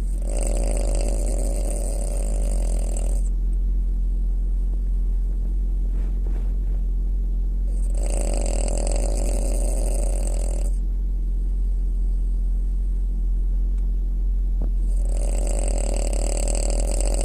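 French bulldog snoring in her sleep: three long, rasping snores of about three seconds each, roughly seven seconds apart, over a steady low hum.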